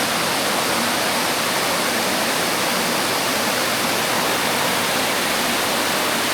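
A waterfall's rush, heard from the brink where the river pours over the rock: a steady, loud, even hiss of falling water that holds unchanged throughout.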